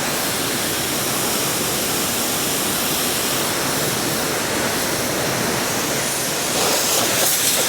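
Car-wash pressure wand spraying soapy water onto a coach bus: a steady hiss of spray that gets a little louder near the end.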